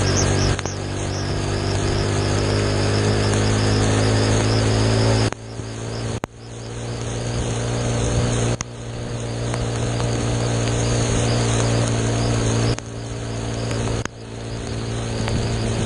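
Motorcycle engine running while under way over a steady hiss. The engine note dips sharply about five times and builds back up after each dip.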